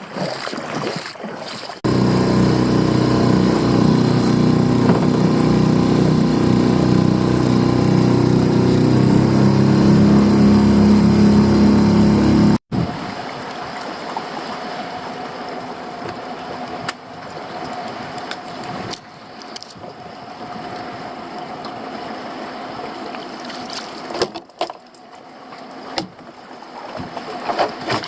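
Small boat's outboard motor running steadily for about ten seconds, its pitch rising a little near the end, then cutting off abruptly. A quieter stretch follows, with a faint steady hum and a few scattered knocks.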